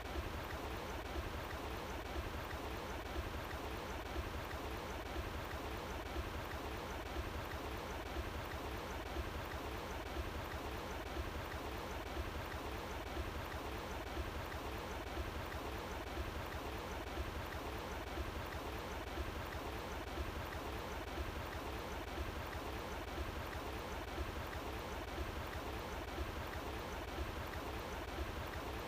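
Running water flowing steadily: a continuous, even rush without breaks.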